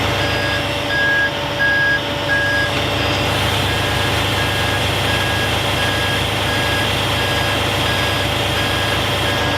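Kenworth T880 hook truck's backup alarm beeping about twice a second, with the truck's diesel engine running underneath.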